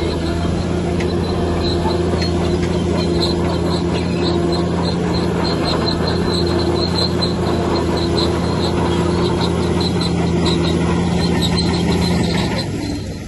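Heavy diesel engine of an earthmoving machine running steadily under a low hum, with a repeating high-pitched squeak over it. The engine sound falls away near the end.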